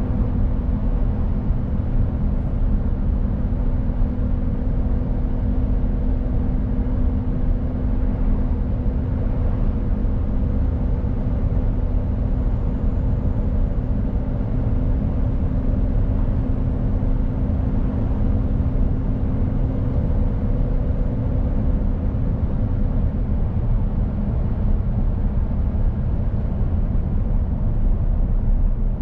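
Mercedes-Benz Actros truck under way: a steady engine drone mixed with road and tyre noise. The engine's steady tone drops away about three-quarters of the way through, as the truck changes load or gear.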